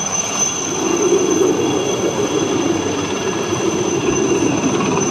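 Formation of Chetak (Alouette III) helicopters flying past, a steady turbine and rotor noise with a thin high whine.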